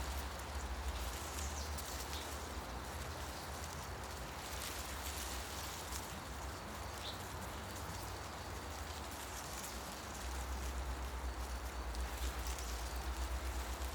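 Wind moving through forest trees, with leaves rustling in a steady hiss and a low wind rumble on the microphone that grows stronger about ten seconds in. A bird gives one brief faint chirp about halfway through.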